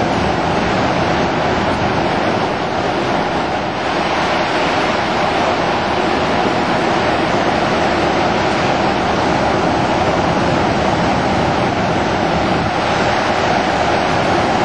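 Floodwater released from Lake Whitney Dam rushing down the Brazos River as whitewater: a steady, loud rush of water.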